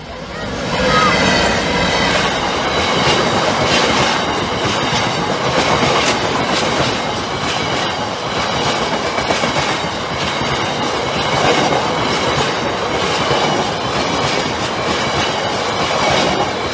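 A freight train passing over the level crossing, its wagon wheels clattering rhythmically over the rail joints, with a thin high wheel squeal running through it. It swells up in the first second and then keeps on steadily.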